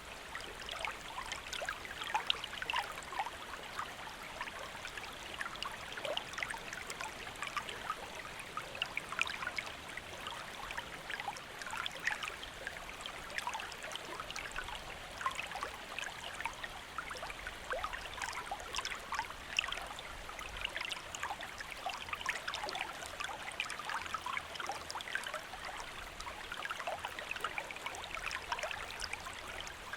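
Shallow stream or small river flowing steadily, water trickling and babbling over stones with a dense patter of small splashes.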